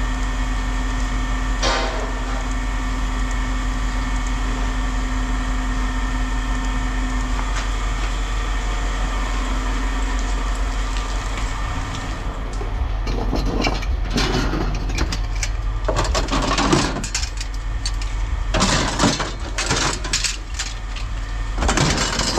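A vehicle engine idling with a steady low hum. From about halfway in, irregular clattering and knocks of metal being handled come over it.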